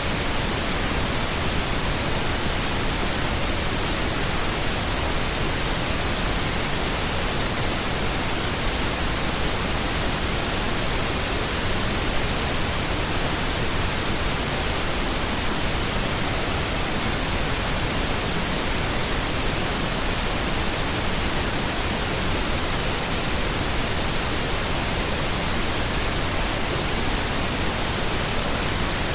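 Steady synthetic pink noise: an even, unbroken hiss spread across all pitches, heavier in the low end than white noise, without any change or events.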